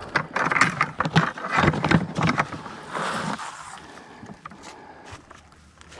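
Handling noise of a bucket and feeding gear being picked up and carried: a dense run of clatter, knocks and rustling for the first two and a half seconds, another brief burst about three seconds in, then quieter shuffling.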